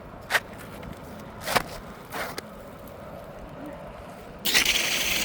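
A few sharp knocks of a flat bar working under an old 3-tab asphalt shingle, then about four and a half seconds in a loud, rough scrape as the shingle is dragged out from under the course above.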